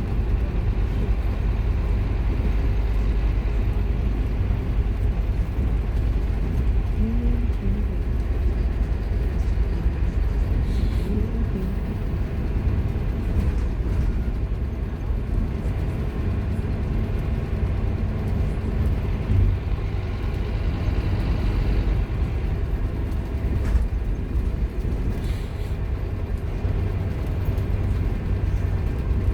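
Scania K230UB Omnilink bus on the move, heard from on board: its diesel engine drones steadily under the rumble of the road and the body.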